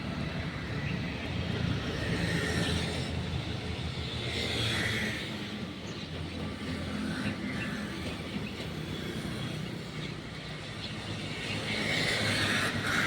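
Steady low rumble of a running vehicle engine or road traffic, with short higher-pitched sounds about two and a half seconds in, about five seconds in, and again near the end.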